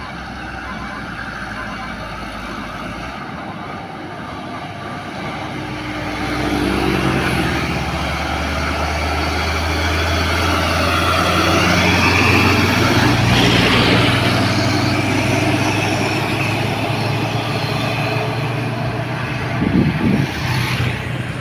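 Heavily loaded Hino 500 truck's diesel engine labouring in a low steady drone up a steep climb. It grows louder from about a quarter of the way in and is loudest a little past the middle. A few short knocks come near the end.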